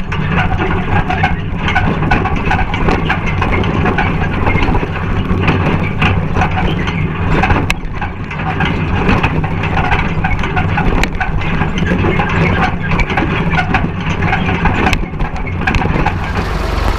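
Farm tractor engine running steadily while pulling a hay rake through the field.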